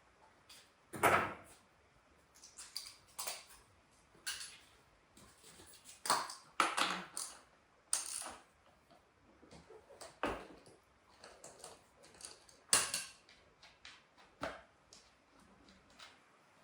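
Irregular metallic clinks, clicks and knocks of hand tools and loose metal parts being handled, with the loudest knocks about a second in and about two thirds of the way through.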